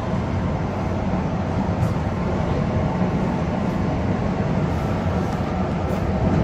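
Metro-North M3A electric multiple-unit train running along elevated track, heard from on board: a steady low rumble of wheels on rail with a few faint clicks.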